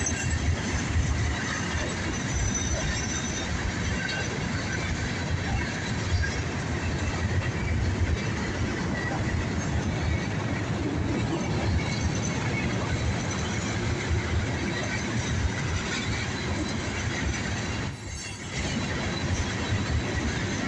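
Norfolk Southern freight train's cars rolling past: a steady rumble of steel wheels on rail, with faint high wheel squeal at times and a brief drop in level near the end.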